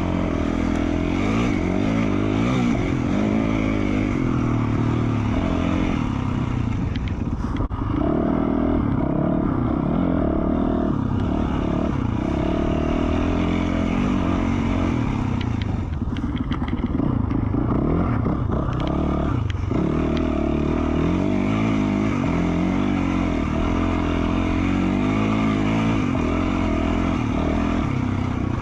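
2020 Yamaha YZ450F's single-cylinder four-stroke engine through an FMF Q4 slip-on exhaust, running under load on a trail ride, its pitch rising and falling with the throttle. The revs drop briefly about seven seconds in and again for a few seconds past the halfway point.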